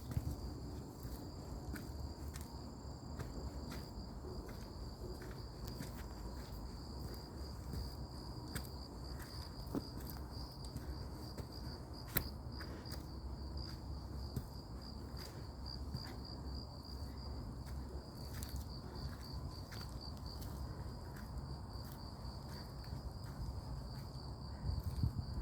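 Insects trilling steadily in a high, finely pulsing tone, over a low rumble with scattered faint clicks and one sharper click about halfway through.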